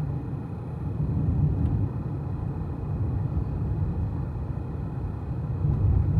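Steady low rumble of road and engine noise inside a car driving along a country road.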